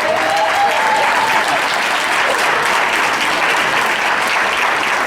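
Audience applauding steadily, with a voice calling out over the clapping in the first second or so.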